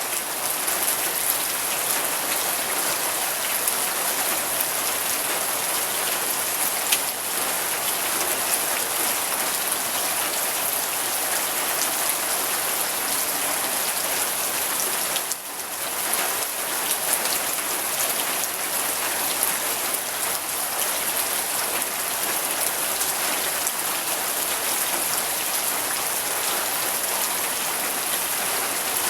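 Steady rain falling, with many individual drops ticking on a hard surface; the sound dips briefly about halfway through.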